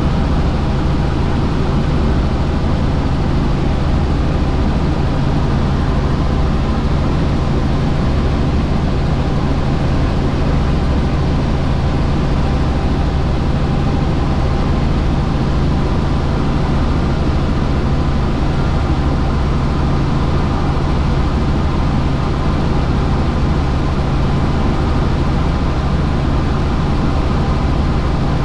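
Helicopter in flight, a steady, unchanging drone of rotor and engine with a strong low hum.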